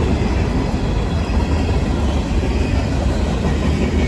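Cars of a long CSX manifest freight train rolling past, a steady rumble of steel wheels on rail.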